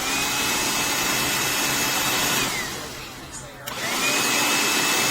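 Black+Decker Dustbuster cordless handheld vacuum switched on. Its motor spins up to a steady high whine, then winds down after about two and a half seconds. About a second later it is switched on again and spins back up.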